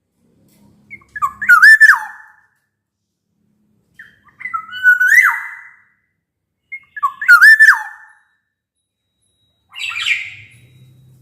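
Black-naped oriole singing: three loud, fluty whistled phrases of about a second each, gliding up and down, a few seconds apart. A harsher, rasping call follows near the end.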